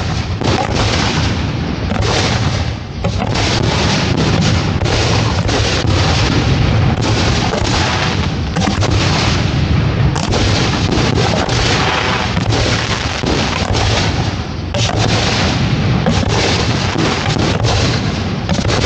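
Dense barrage of fireworks launching and bursting, booms and cracks overlapping almost without a break, with a brief lull about three seconds in.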